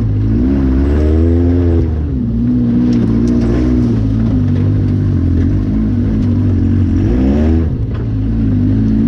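An off-road vehicle's engine running loud and steady, revving up and easing off twice: once about a second in and again near the end.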